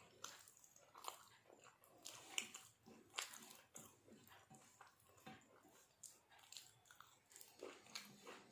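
Faint close-up eating sounds: a person chewing a mouthful of food, with irregular soft mouth clicks and smacks.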